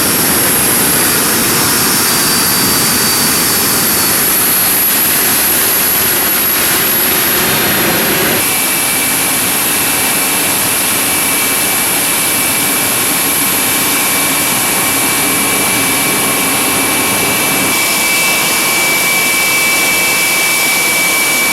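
Ilyushin Il-86's Kuznetsov NK-86 turbofan engines running on the ground during an engine run-up, a steady loud rush with high-pitched whines. About a third of the way in the sound shifts: the lower rumble drops away and a new steady whine takes over.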